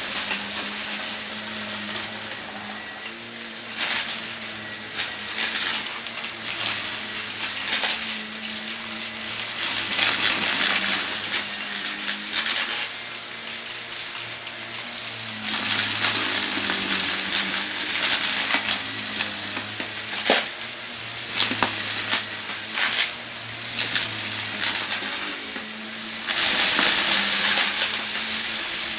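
Vacuum cleaner running and sucking up crunchy debris: a dense crackle and rattle of bits being pulled in over the motor's steady hum, a little louder near the end.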